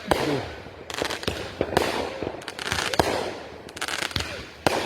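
Consumer fireworks going off in a run of sharp bangs, about one or two a second at irregular spacing, over a steady crackling hiss.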